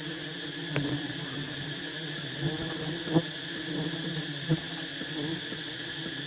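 Steady insect buzzing and droning, with a few short sharp knocks about one, three and four and a half seconds in.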